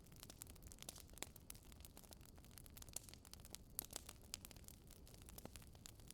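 Fire crackling in a fireplace: a faint stream of small, sharp pops and snaps, several a second, over a low steady hiss.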